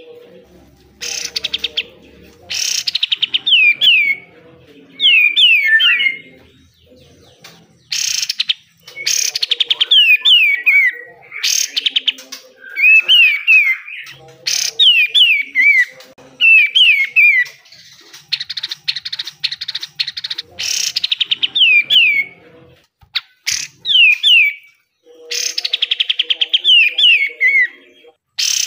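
Kapas tembak (katem) songbird singing 'besetan': harsh, rapid buzzy trills, each followed by a few quick downward-sliding whistled notes. The phrases come one after another, separated by short pauses.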